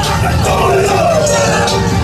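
A loud street crowd with shouting voices over the low rumble of motorcycle engines.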